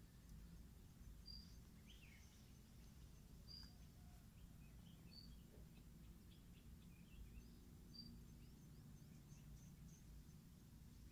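Near silence with faint birds calling: one gives a short high chirp every two to three seconds, with other small chirps scattered between, over a low steady rumble.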